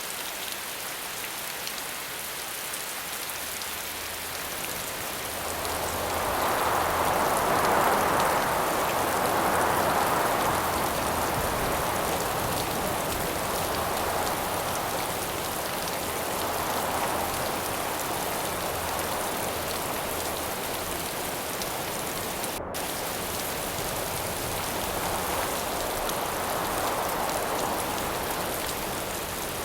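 Steady rain falling, with wind gusting over it: a strong gust swells up about six seconds in and fades, and another rises near the end.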